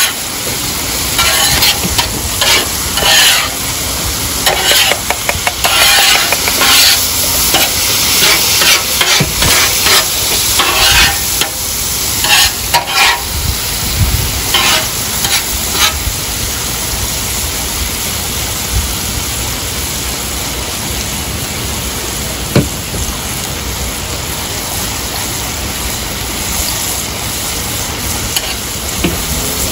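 Diced chicken and cubed steak sizzling in oil on a hot flat-top griddle. A run of short, sharp sounds over the first half or so, then steady sizzling.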